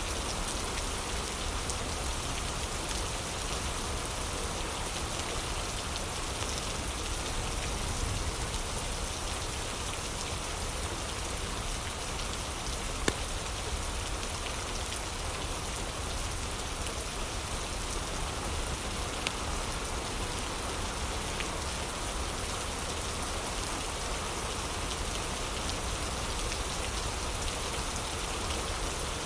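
Heavy rain falling steadily, with a few sharp pops from a crackling fireplace, the loudest about thirteen seconds in.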